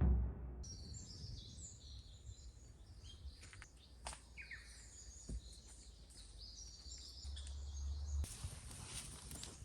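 Birds chirping and singing over faint outdoor background noise, with a few light knocks; about eight seconds in, a higher rustling hiss comes up.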